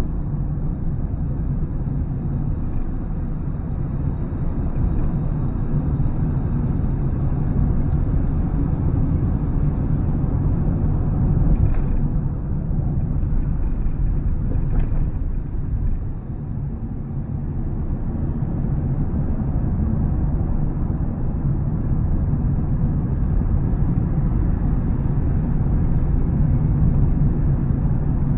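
Steady low road rumble inside the cabin of a Honda Step WGN Spada Hybrid on the move, with a couple of faint clicks near the middle: a hard-to-hear rattle from around the overhead Honda Sensing camera unit.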